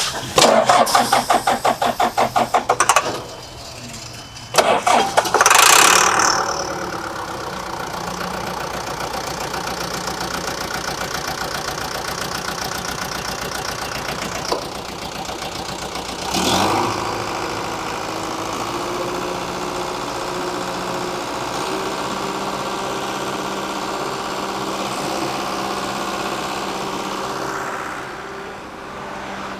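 John Deere 310G backhoe's diesel engine being cranked by the starter, rhythmic compression strokes about four a second, then on a second try it catches, revs up and settles into a steady idle. It picks up briefly once more about halfway through.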